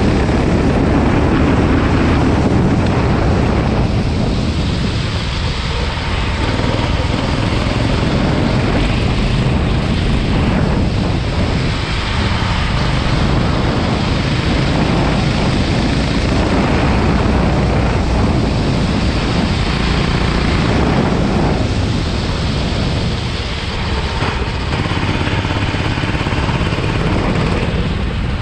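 Go-kart engine running at speed on a lap, its pitch rising and falling several times with the throttle, over a steady rushing noise.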